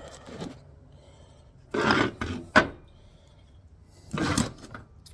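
Handling noise of a phone being propped up and repositioned: two short scraping, rubbing bursts with a sharp knock between them.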